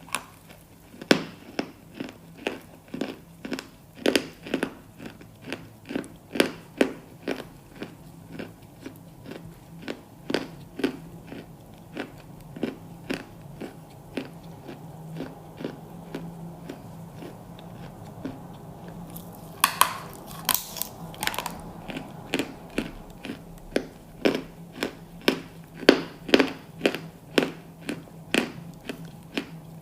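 Close-miked crunching as a person bites and chews something hard and crisp, a steady run of sharp crunches about two a second, with a louder, crisper cluster of crunches about two-thirds of the way through.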